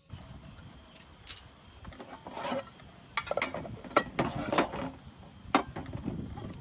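Irregular sharp clicks and light clatter of hard objects being handled, about a dozen in a few seconds, over a low steady background rumble.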